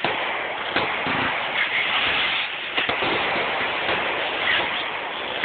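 Aerial fireworks bursting into crackling stars: a dense, continuous crackle with a few sharper pops, at the start, about a second in and near three seconds.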